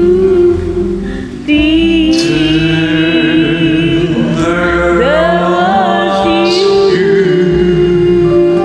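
Song outro: a singer holds long notes with vibrato over a backing track, with a second melodic line sliding up and down in the middle.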